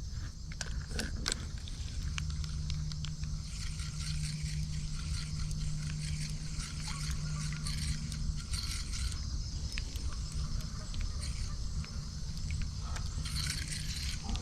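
Spinning fishing reel being cranked to retrieve a lure, a steady whir that runs for several seconds and then stops, with small clicks and handling noise.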